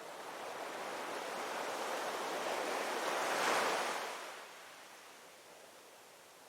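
A rushing, surf-like noise that swells to a peak about three and a half seconds in and then dies away, like a wave washing in.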